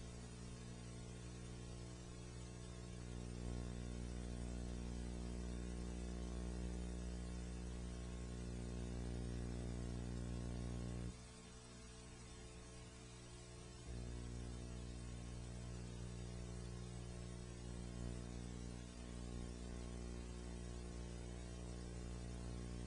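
Steady low electrical hum with faint hiss, with no programme sound on the soundtrack. The hum drops lower for about three seconds about halfway through.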